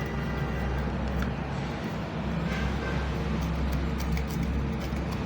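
Voltage stabilizer powered up on the bench: a steady low mains hum with several light clicks, the stabilizer's relays clicking in.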